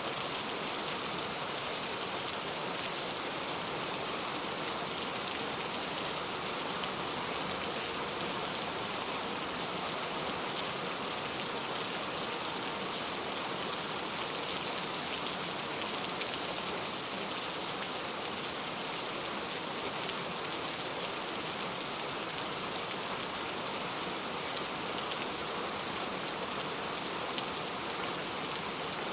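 Steady rain falling, an even hiss of rainfall that holds the same level throughout.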